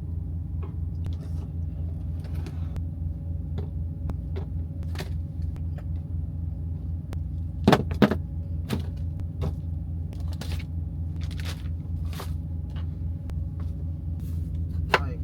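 Steady low rumble of the semi truck's engine running, heard inside the cab, with scattered light clicks and knocks of food and packaging being handled, and two louder knocks close together about eight seconds in.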